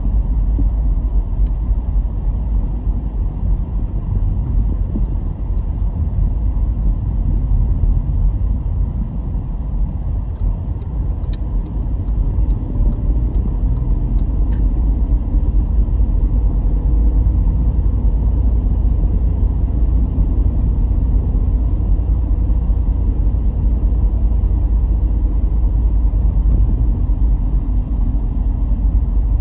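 A car driving along, heard as a steady low rumble of road and engine noise, with two faint clicks in the middle.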